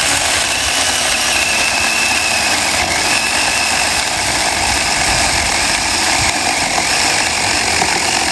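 Saker mini cordless electric chainsaw running steadily under load, its chain cutting a branch near the limit of the small saw's size.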